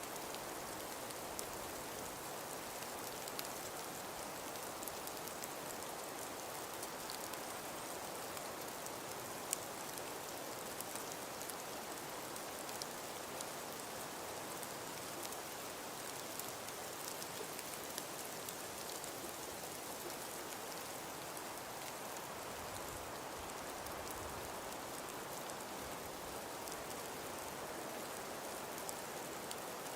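Steady snowstorm ambience of wind and falling snow: an even hiss sprinkled with fine, scattered ticks like pellets landing, with a brief low rumble about three-quarters of the way through.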